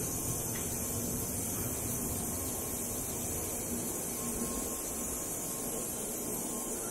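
Steady hiss and hum of an N700A Shinkansen standing at the platform with its onboard equipment running, no movement noise.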